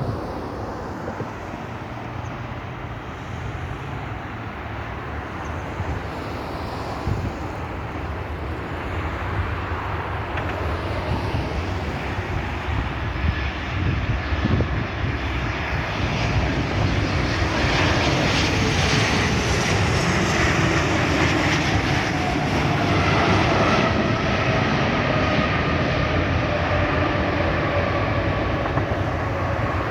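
Boeing 737 jet airliner on landing approach, its engine noise growing steadily louder. In the second half a turbofan whine falls in pitch as the jet passes by.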